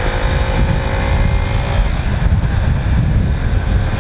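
Wind buffeting the microphone while riding a motorcycle, with a faint engine drone beneath it that rises slightly and fades out about two seconds in.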